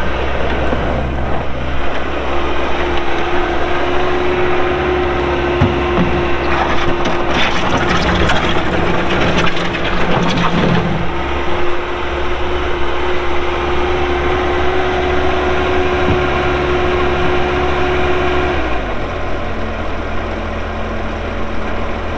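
Bobcat S185 skid steer's Kubota diesel engine running steadily at speed with a constant high whine, with a few seconds of clatter mixed in near the middle. About three-quarters of the way through, the engine speed drops and it settles at a lower pitch.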